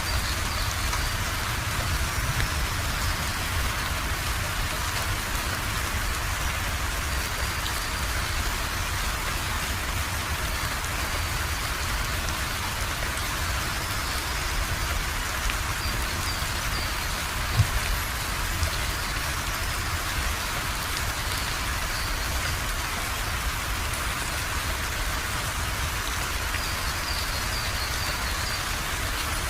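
Steady rainfall, an even hiss of drops hitting a surface. There is one brief knock about two-thirds of the way through.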